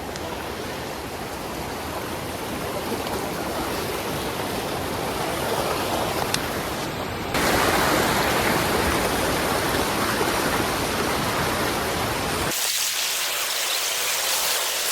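Waterfall: a steady rush of falling water that grows slowly louder, jumps louder about halfway through, and loses its deep rumble near the end.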